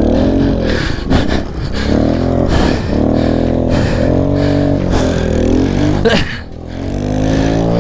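Kawasaki KLX110 pit bike's small single-cylinder four-stroke engine revving up and down under throttle as it is ridden. The revs drop off briefly about six seconds in, then climb again.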